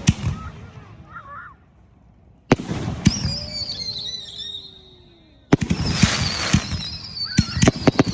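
Backyard consumer fireworks going off: a sharp bang, then another burst with a whistle falling in pitch. About halfway through comes a dense run of crackling and rapid sharp pops.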